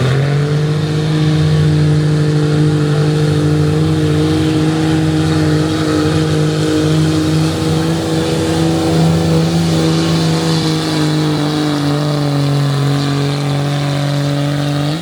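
Diesel pickup truck engine held at a steady, high RPM, its pitch sagging slightly in the last few seconds.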